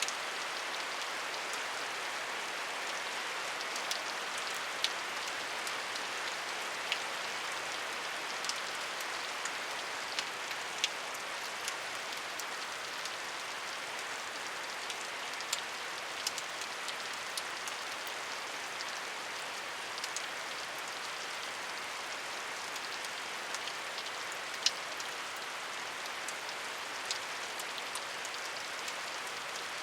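Steady rain with a continuous hiss and scattered individual drops ticking sharply on a surface.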